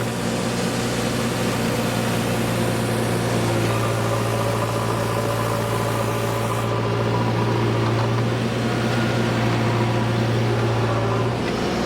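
Powertrac 445 tractor's diesel engine running steadily at constant speed, its note shifting slightly near the end.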